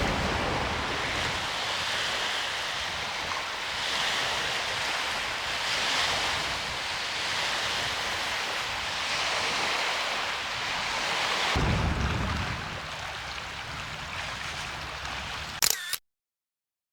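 Small waves washing against the lake shore in gentle swells, with wind on the microphone. A short click near the end, then the sound cuts off to silence.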